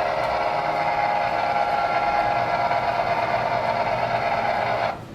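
Model train running on a layout: a steady whirring hum with several held tones. It drops away sharply near the end.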